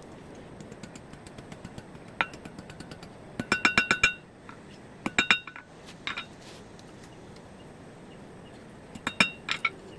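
Hammer blows on an anvil, ringing clearly, forging a small hook from a steel nail. The blows come in short flurries: one about two seconds in, a quick run of about half a dozen around three and a half seconds, a few more around five to six seconds, and another handful near the end.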